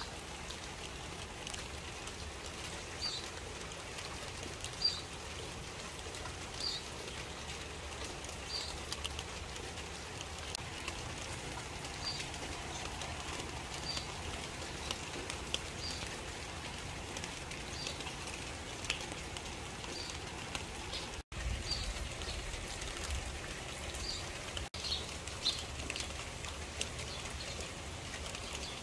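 Steady rain falling, with a bird giving a single high chirp about every two seconds.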